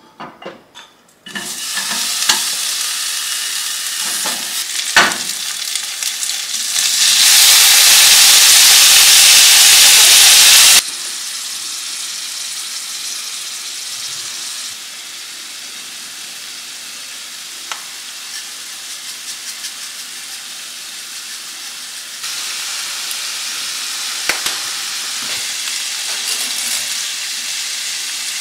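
Food frying in hot oil in a pan, a steady sizzle stirred now and then with light utensil clicks. After a few clicks at the start, the sizzle comes in and swells much louder for about four seconds, then drops suddenly to a quieter hiss.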